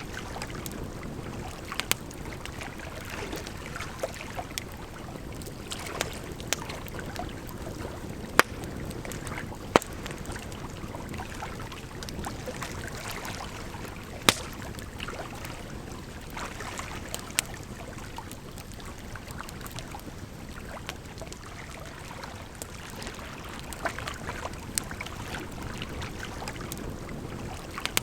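Campfire crackling, with scattered sharp pops from the burning wood, over a steady sound of running water.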